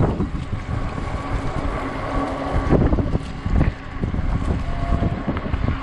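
Gusty wind buffeting the microphone on a moving e-bike, a heavy, uneven low rumble that swells and dips with the gusts.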